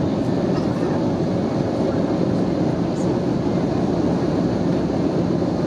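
Steady low rumble of engine and airflow noise heard inside the cabin of an Airbus A320neo with Pratt & Whitney PW1127G geared turbofan engines, even in level throughout.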